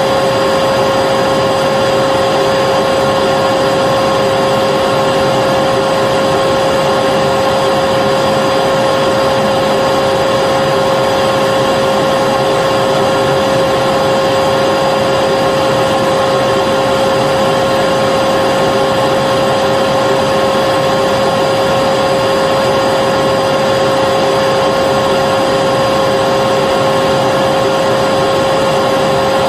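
Vacuum cleaner motor running continuously and loudly, a steady airflow rush with an unchanging whine.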